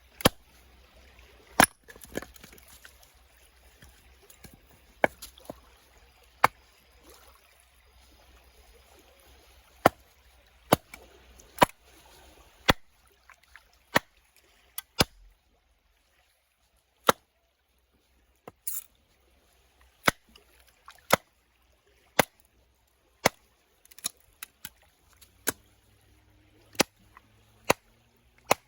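A series of sharp knocks or clicks at irregular intervals, mostly about a second apart, over faint water-like hiss that stops about halfway through.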